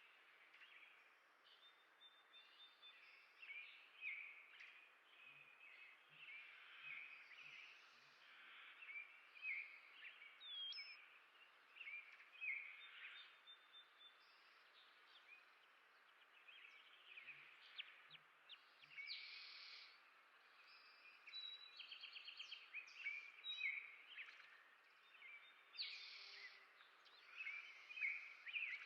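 Several small songbirds chirping and twittering, a busy stream of short calls with a quick rattling run of notes a little past the middle, faint under a steady outdoor hiss.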